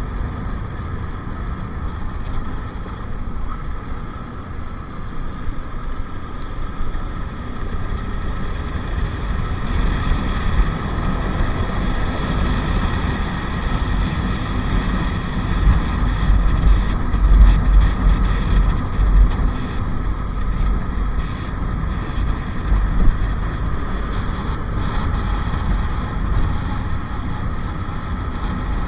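Bajaj Pulsar RS200 motorcycle's single-cylinder engine running at a steady pace while riding, with wind buffeting the microphone, heaviest about halfway through.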